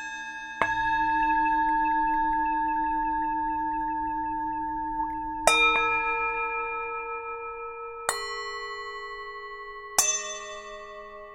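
Tibetan singing bowls struck four times, each strike at a different pitch and ringing on with a slow wavering fade, each new strike sounding over the ringing of the last.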